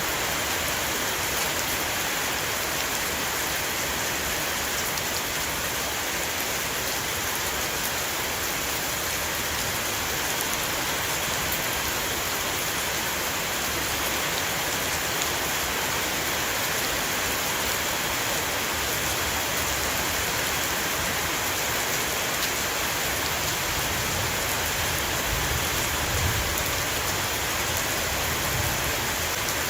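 Heavy shower of rain falling steadily on a roof, a dense even patter of drops, with a low rumble swelling underneath near the end.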